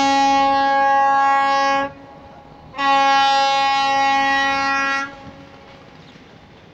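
A boat's horn sounding two long, steady blasts of about two seconds each, the second starting about three seconds in.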